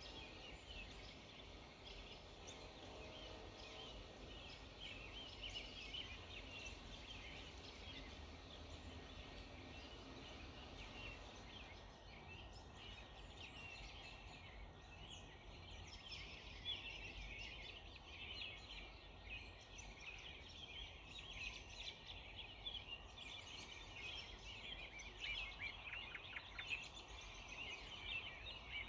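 Dawn chorus of many small birds chirping and singing at once, faint and continuous, with a quick run of rapid notes near the end over a low background rumble.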